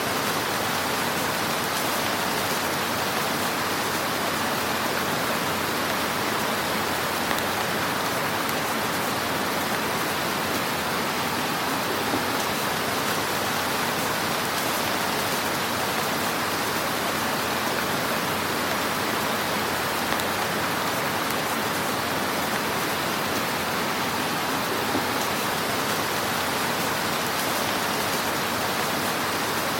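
Wood fire burning in a fireplace: a steady crackling hiss with an occasional small pop.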